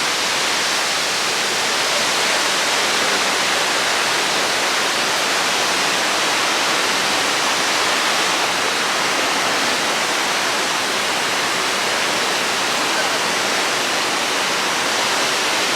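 Victoria Falls, heard close by: a steady, even rush of falling water with no change in level.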